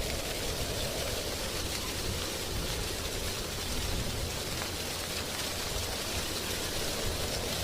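Wind blowing through drying tree leaves, a steady rustling hiss with no break.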